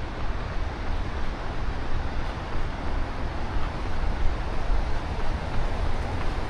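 Steady outdoor noise picked up by a body-worn action camera during a run, with a low, uneven rumble of wind buffeting the microphone.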